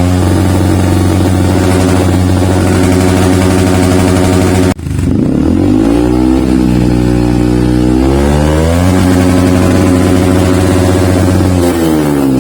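Yamaha WR155's single-cylinder engine revving through a Triton CR-5 full-system stainless steel exhaust. It is held at high revs, cuts off suddenly about a third of the way in, then the revs fall and climb again twice and drop near the end.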